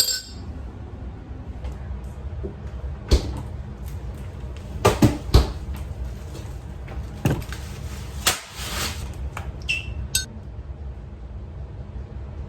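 A run of separate knocks and clatters, about eight of them, from kitchen items being handled and set down, over a steady low hum.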